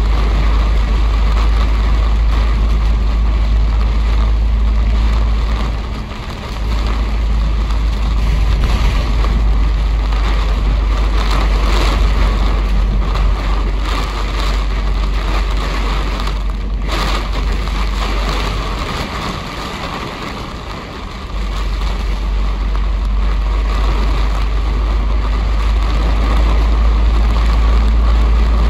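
A bus heard from inside as it drives: a steady, heavy low rumble of engine and road noise under a haze of tyre and rain noise. The rumble eases briefly about six seconds in and again for a couple of seconds around twenty seconds in.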